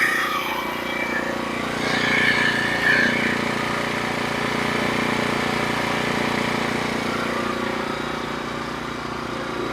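Norwood HD36v2 portable sawmill's engine running steadily, with a slight swell a couple of seconds in.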